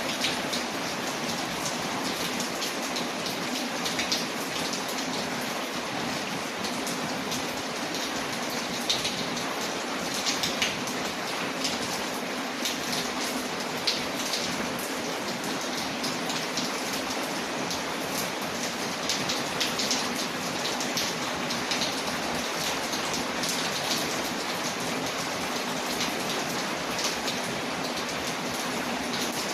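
Steady rain, layered with a crackling fireplace: an even hiss with scattered short, sharp crackles.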